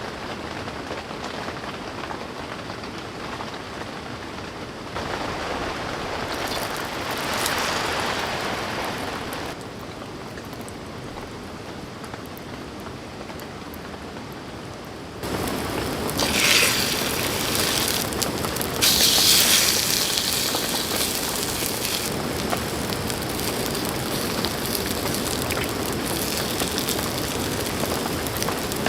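Steady rain falling on a tent. It gets louder in steps, about five seconds in and again, more sharply, about fifteen seconds in.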